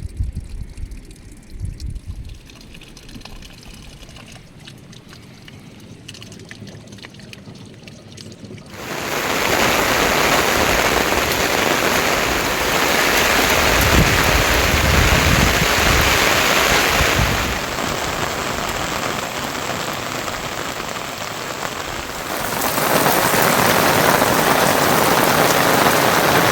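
Rain falling, quieter at first, then suddenly much louder and heavier about a third of the way in, with its strength shifting a little after that.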